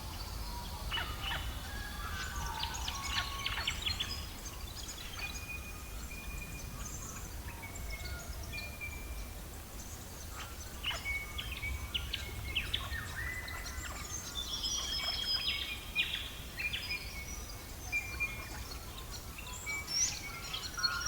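Mixed birdsong, many short chirps and calls from several birds, over a steady low rumble with scattered crackling ticks from a wood fire.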